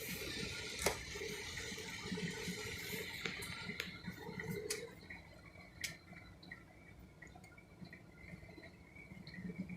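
Rain and wet road noise heard from inside a moving car, with scattered drops ticking. The noise eases about five seconds in.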